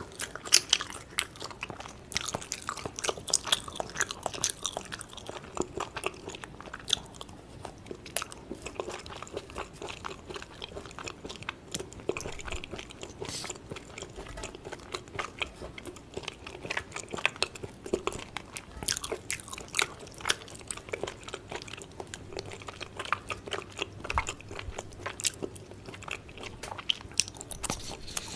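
Close-miked chewing and biting of Korean yukhoe (raw beef tartare), with many sharp little mouth clicks throughout.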